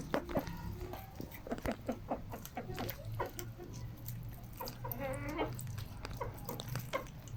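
Chickens clucking in a quick run of short calls, with one longer call about five seconds in, over a steady low hum.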